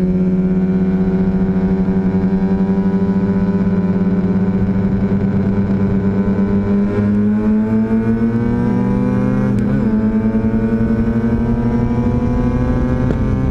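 Classic Mini Cooper race car's A-series four-cylinder engine pulling hard on track, its revs climbing slowly and steadily in one gear. It is heard close up from a camera mounted on the car beside the rear wheel.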